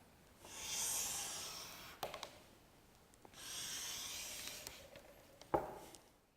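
European-style bench plane taking two long strokes along a board, each a steady hiss of about a second and a half as the blade cuts a shaving. A sharp knock follows each stroke, the one near the end the loudest.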